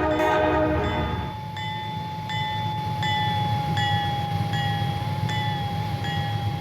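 Freight diesel locomotive's multi-chime air horn sounding a chord that cuts off about a second in. Then a grade-crossing bell rings at a steady pace, about one and a half strikes a second, over the low rumble of the moving train.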